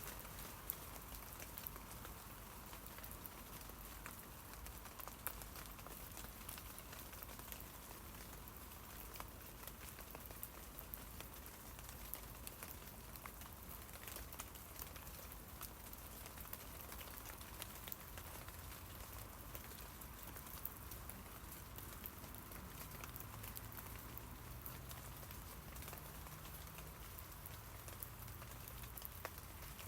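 Soft, steady rain falling on tree leaves: a constant hiss with frequent sharp ticks of individual drops striking the leaves.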